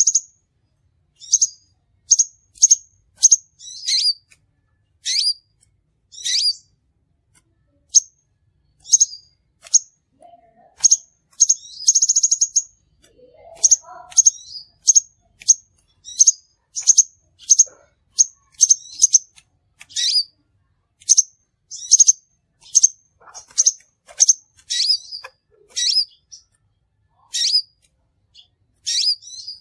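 Crimson sunbird calling: a string of sharp, high chirps, roughly one or two a second, broken by a longer buzzy trill about twelve seconds in.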